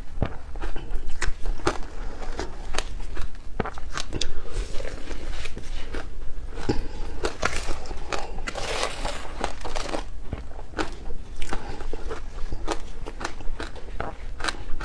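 Matcha ice being bitten and chewed: a quick run of sharp cracks and crunches, growing into a denser stretch of grinding crunch about halfway through.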